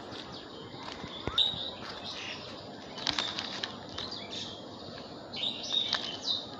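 Birds chirping outdoors: short, repeated high calls, clustered about three seconds in and again near the end, over a steady background hiss with a few sharp clicks.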